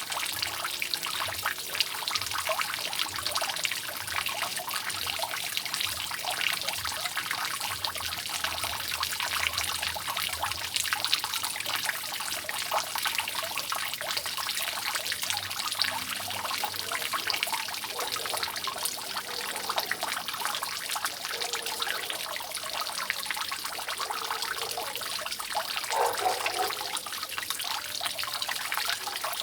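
Water dripping and trickling steadily from a leaking roof, a dense run of small drops and splashes. A short louder sound stands out near the end.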